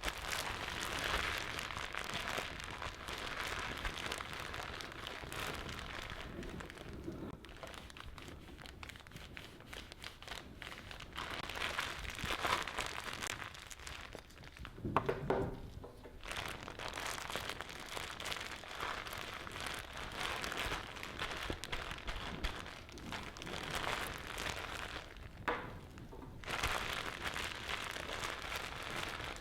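Scrubbing on a plastic figure: a steady, crackly rasping with short pauses, and a brief louder pitched sound about halfway through.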